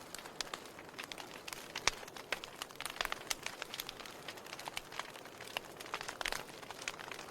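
Burning firewood crackling in a fireplace: a steady soft hiss with many irregular sharp pops and snaps, the loudest just before two seconds in.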